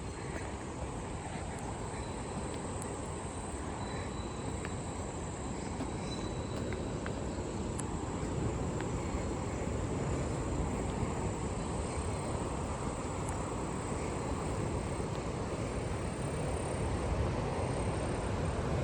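Insects chirring steadily in a high, even band over a low, continuous outdoor rumble that swells slightly toward the end, with a few faint ticks.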